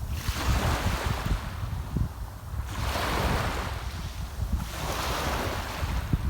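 Sea waves washing onto the shore, the hiss swelling and fading about three times, with wind buffeting the microphone as a low rumble underneath.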